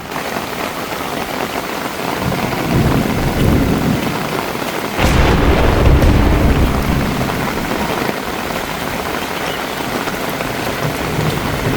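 Steady rain hiss, with a loud low rumble of thunder starting suddenly about five seconds in and dying away slowly.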